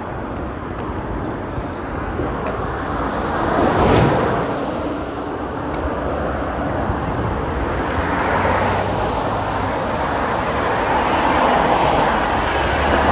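Road traffic passing on a busy main road: a steady rush of tyre and engine noise, with one vehicle going by close about four seconds in and more swelling past near the end.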